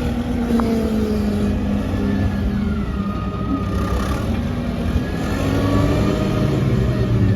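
Diesel engine of heavy earthmoving machinery running under load, its pitch rising and falling as it works.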